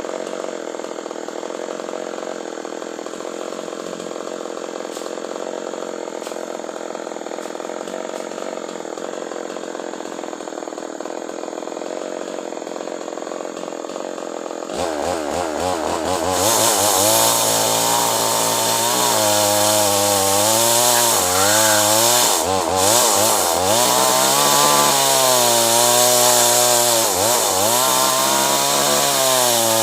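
Chainsaw running steadily at a lower level, then about halfway through opening up and cutting acacia wood. The engine pitch dips and recovers over and over as the chain bogs in the cut.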